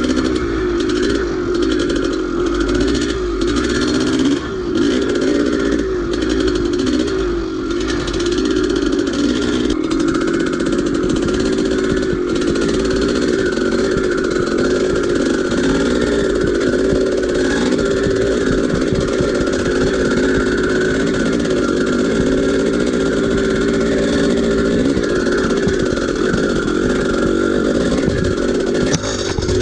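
1983 Maico 490 dirt bike's two-stroke single-cylinder engine running hard under load, its revs rising and falling steadily. There are a few knocks and clatter in the first several seconds.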